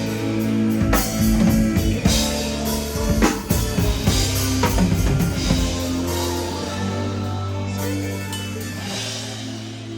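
Live band sound-checking on a festival stage: a drum kit with bass drum and snare hits over sustained bass and instrument notes, the drum hits dropping out about halfway through and the music thinning towards the end.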